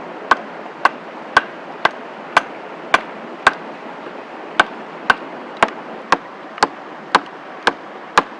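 Axe chopping wood in steady strokes, about two a second, with a short pause about halfway through.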